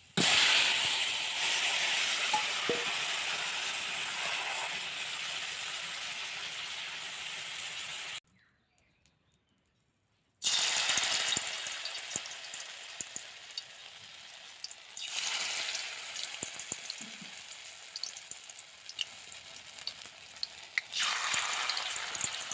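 Food sizzling in hot oil in a pan: the sizzle starts loud all at once and slowly dies down, breaks off, then starts loud again and fades, with a few light clinks.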